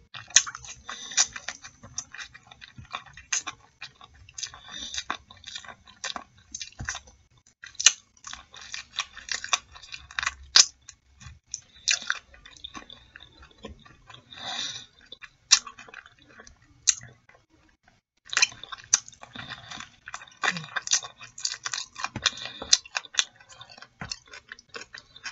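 Close-up chewing and mouth sounds of a person eating fried chicken wings in mumbo sauce: biting meat off the bone and chewing, with many short smacks and clicks and a brief pause about two-thirds of the way through.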